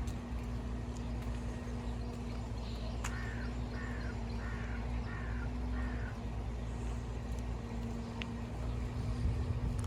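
A bird giving five short harsh calls in quick succession, about three seconds in, over a steady low background rumble.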